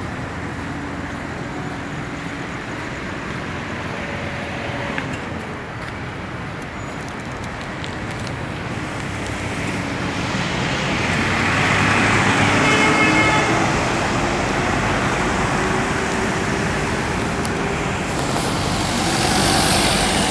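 Road traffic running steadily, with a vehicle passing close and swelling loud about halfway through and another passing near the end.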